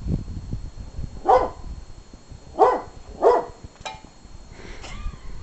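English bull terrier–German shepherd mix dog barking three times in short, sharp barks at birds up in a tree that it cannot reach.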